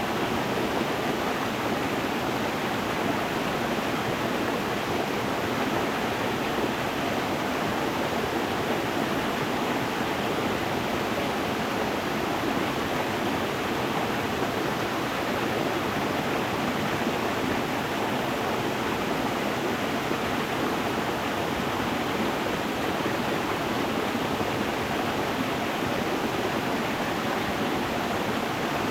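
A stream flowing over stones: a steady, unbroken rush of water.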